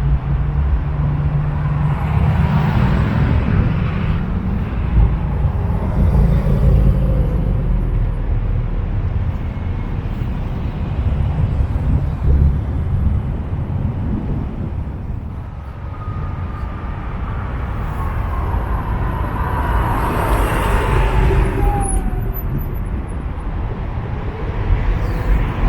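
Car engines with loud exhausts accelerating away, the engine noise swelling several times as cars pass. About sixteen seconds in, a high whine slowly falls in pitch for several seconds.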